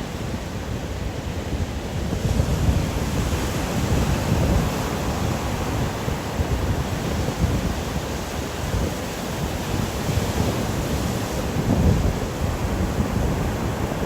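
Stormy wind blowing in gusts: a continuous rushing noise with a deep low rumble that swells and eases every few seconds.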